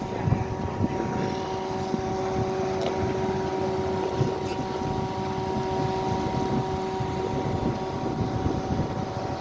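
A utility bucket truck's engine running steadily, a constant hum holding the same pitch, over an uneven low rumble.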